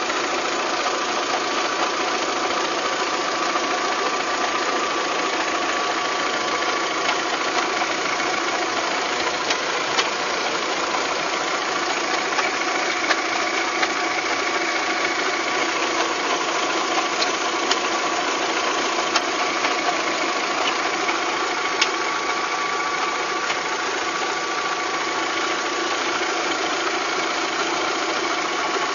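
Volkswagen Golf Mk3 engine running steadily with a high-pitched whine and a few sharp clicks scattered through; this is the abnormal engine noise being diagnosed.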